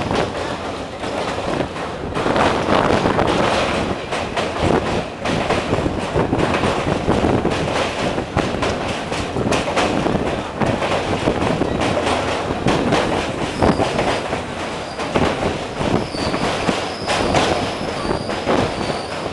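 Train wheels running on rails, a continuous rumble with irregular clacks over the rail joints. About two-thirds of the way through, a thin, steady, high-pitched wheel squeal joins in.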